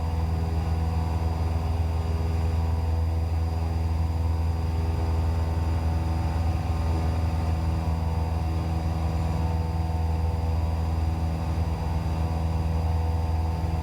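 Cessna 172's piston engine and propeller droning steadily in flight, a constant low hum with no change in pitch.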